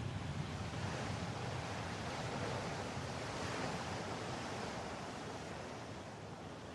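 Steady rushing noise of wind and water, slowly fading toward the end.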